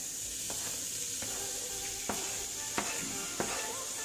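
Omena frying in oil in a pan, sizzling steadily, while chopped tomatoes are pushed in with a wooden spoon, with several light knocks and scrapes of the spoon.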